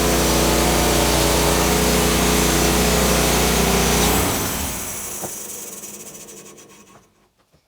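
An engine running steadily, then shut off about four seconds in; a higher whir fades away over the next few seconds to near quiet.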